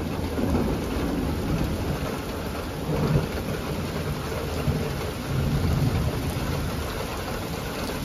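Heavy rain falling steadily in a thunderstorm, with low rumbles swelling up about three seconds in and again around six seconds.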